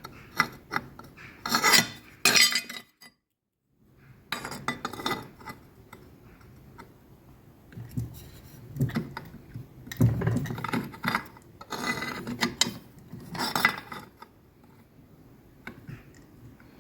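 Steel plate and metal fly-press tooling clinking and clattering as they are handled and set in place, with scattered sharp knocks.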